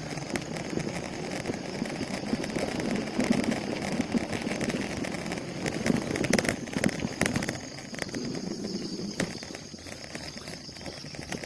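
Bicycle rolling over a rough road, its frame and parts rattling with scattered clicks and knocks, busiest about six to seven seconds in, over a steady high buzz.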